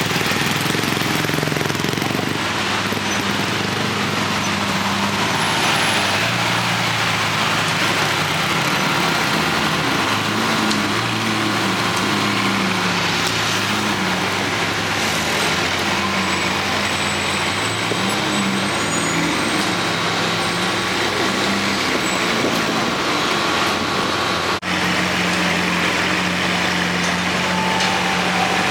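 Busy city-street traffic: a steady wash of engine and tyre noise, with the low hum of idling and slowly moving engines whose pitch wavers up and down.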